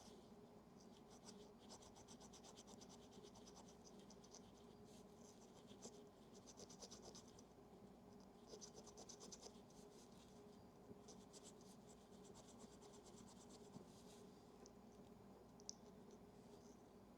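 Faint, rapid scratching strokes of a small hand tool, in bouts of a second or two separated by short pauses: scrubbing oxidation off a camera's battery compartment and contact.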